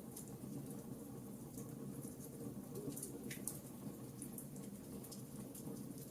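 Wood fire burning in a fireplace, with irregular sharp crackles and small pops over a low steady rumble; one louder pop comes a little past three seconds in.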